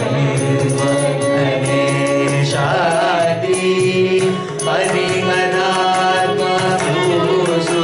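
Carnatic vocal music: voices singing with wavering, ornamented pitch glides over a steady drone, accompanied by frequent mridangam strokes.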